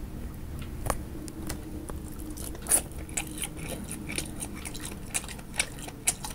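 A person chewing and biting into wet food close to the microphone: irregular moist mouth clicks and smacks, with a few sharper snaps.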